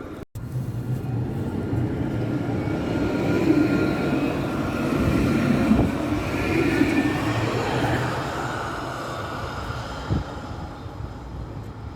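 Tram passing by: a hum with a steady whine that builds, is loudest in the middle, and fades away.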